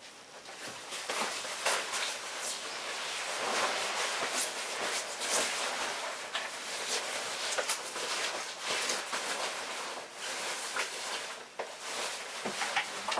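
Objects being rummaged through and handled: continuous rustling with many scattered clicks and small knocks.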